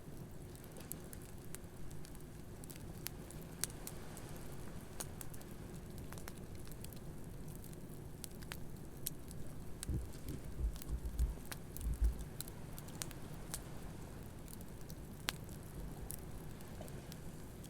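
Wood campfire crackling with scattered sharp pops over a low steady rush of surf, with a few low thumps about ten to twelve seconds in.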